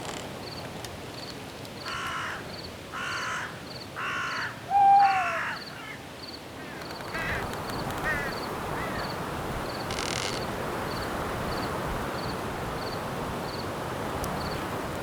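Night forest ambience: crickets chirping in a steady high pulse, about three chirps a second. Near the start a bird gives four harsh calls about a second apart. After that a steady rustling hiss of wind in the branches builds.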